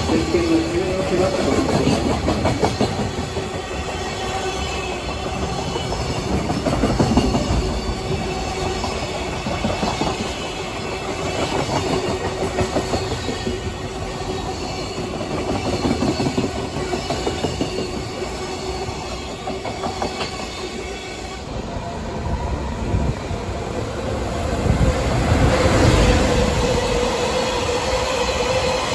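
Freight wagons passing: JR Freight container flatcars, some empty, rolling by with the clickety-clack of wheels over rail joints. Near the end a train of oil tank cars runs through with a steady tonal wheel whine over the rumble.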